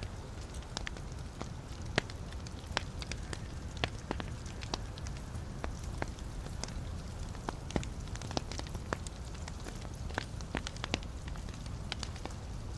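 Wood fire burning in a fireplace: a steady low rumble of flames with frequent sharp crackles and pops from the burning logs at irregular intervals.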